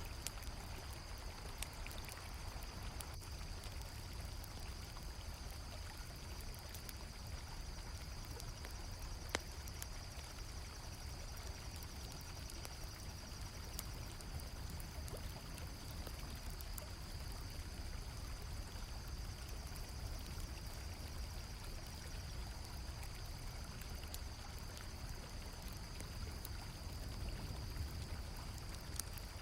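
Steady rush of flowing river water, with a campfire crackling in scattered sharp pops and crickets chirring in one continuous high band.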